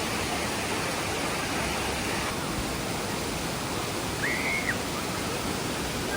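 Waterfall rushing steadily, with a brief high call about two-thirds of the way through.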